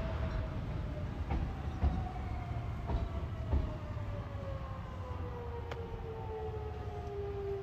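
Electric commuter train pulling into the station: a steady low rumble with a whine that falls slowly in pitch as the train slows, and a few sharp clicks from the wheels on the rails.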